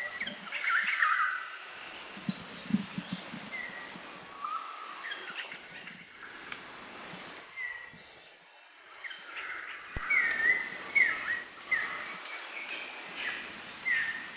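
Wild birds chirping, many short calls one after another.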